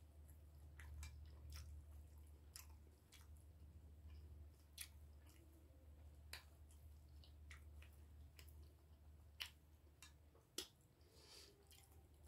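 Faint chewing of food with the mouth closed, with scattered soft clicks and ticks over a low steady hum.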